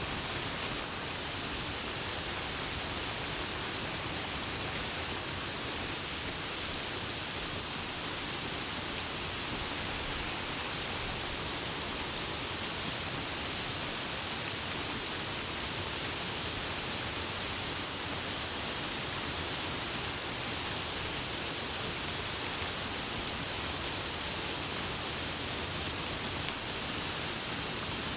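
Steady heavy rain: an even, unbroken hiss with no separate drops or thunder standing out.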